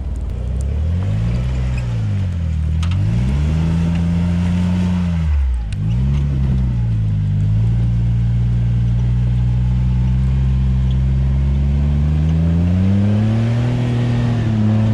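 Jeep engine revving up and down several times as it crawls over rock ledges on a slippery off-road trail. The revs dip sharply about six seconds in, then hold at a steadier level and rise again near the end.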